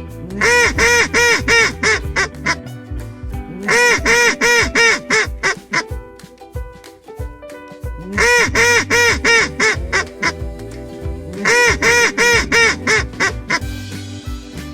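Domestic duck quacking in quick runs of about seven calls, four times over, above background music with a steady beat.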